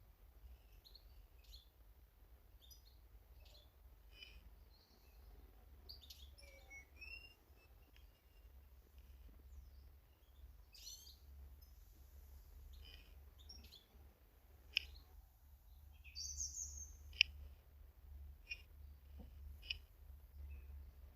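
Small garden birds calling in short, scattered chirps and ticks, with a couple of sharper, louder calls in the second half, over a steady low rumble.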